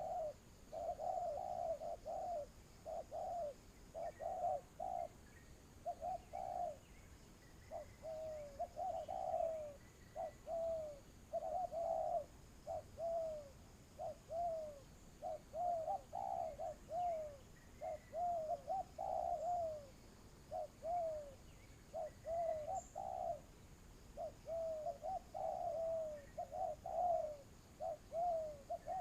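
Spotted doves cooing: a continuous series of short, low coos, many dipping in pitch at their ends, repeated phrase after phrase.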